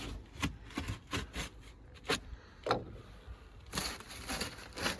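Irregular sharp knocks, snaps and scrapes as siding and crumbling wall sheathing are pried off the wall framing.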